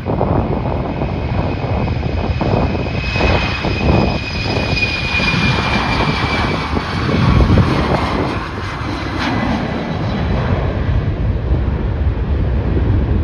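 Airliner engines passing close, a loud rumble with a high whine that slowly falls in pitch over several seconds, while wind buffets the microphone.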